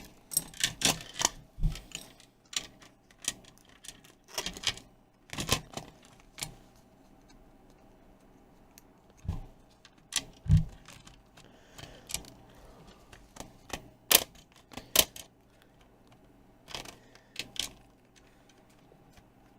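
Irregular small clicks and taps of plastic and metal tablet parts being handled and fitted together during reassembly, a few of them sharper knocks.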